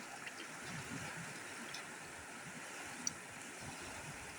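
Rain falling steadily, an even hiss with a few faint drip-like ticks and one sharp click about three seconds in.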